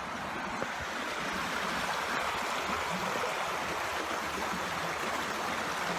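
Shallow creek water running and gurgling steadily over stones, a continuous rushing wash.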